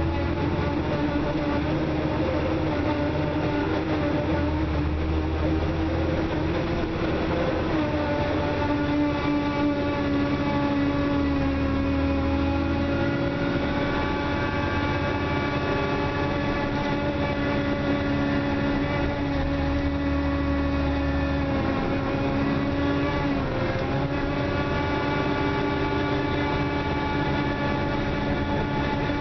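Interior of a 2004 Dennis Trident double-decker bus on the move: the engine and drivetrain run with a steady whine over a low rumble, the whine's pitch shifting slightly a few times as the rumble swells and fades. The bus is billed as clapped out, with a weird noise under acceleration.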